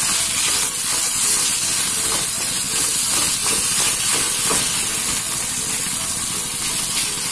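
Drumstick pulp and onion-tomato masala frying in oil in an iron pan: a steady sizzling hiss, with a wooden spatula scraping through the mixture a few times.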